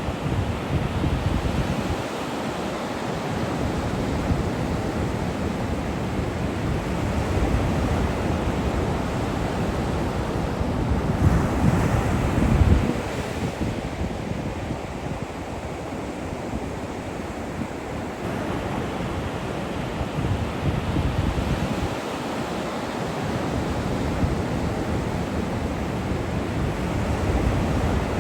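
Ocean surf breaking and washing on a beach, with wind buffeting the microphone. The surf swells and fades, with its loudest surge about eleven to thirteen seconds in.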